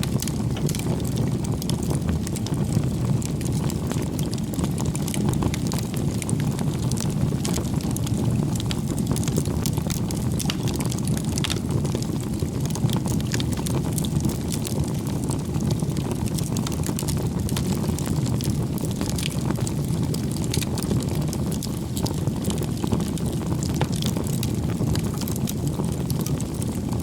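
Wood campfire burning steadily, a dense low roar of flame with frequent sharp crackles and pops from the burning firewood.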